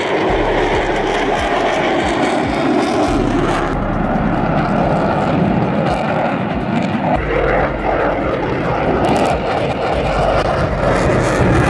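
Loud, steady airplane engine noise, a continuous rush, with the pitch sliding up and down about two-thirds of the way through as the aircraft moves.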